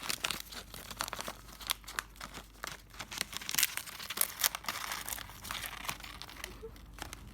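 A pet bird shredding paper with its beak: rapid, irregular crinkling and tearing of paper throughout.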